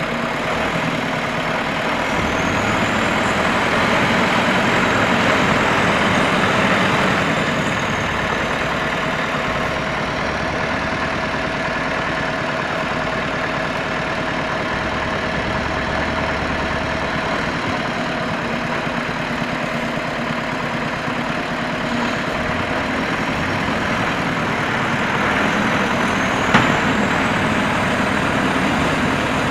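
KAMAZ truck's diesel engine running, swelling louder twice, each time with a high whistle that rises and then falls. A single sharp knock comes near the end.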